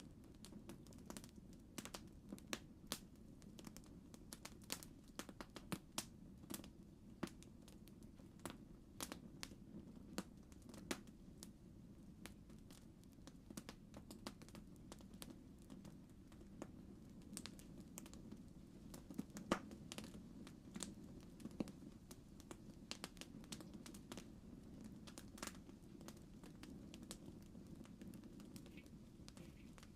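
Campfire crackling: irregular sharp pops and snaps over a low, steady rush.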